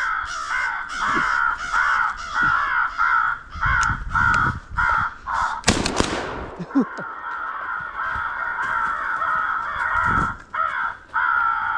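Rapid, repeated crow caws, several a second. About six seconds in, a single shotgun blast cracks out over them, fired at an incoming crow.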